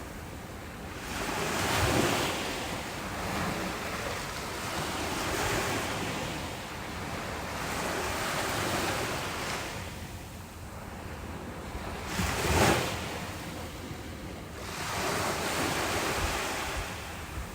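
Ocean surf breaking on a beach: waves swell and wash in every three to four seconds, with one sharper, louder crash about twelve and a half seconds in.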